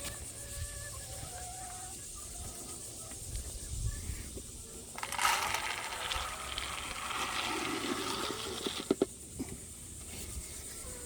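Dry grain feed being poured from a can into a poultry feeder, a rattling rush about five seconds in that lasts a second or two. Short high calls from the birds come before it, and a few sharp knocks come near the end.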